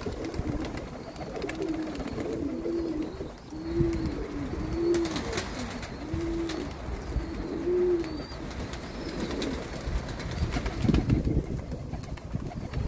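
Domestic pigeons cooing: a run of short coos, about one a second, that stop after about eight seconds, with wind rumbling on the microphone.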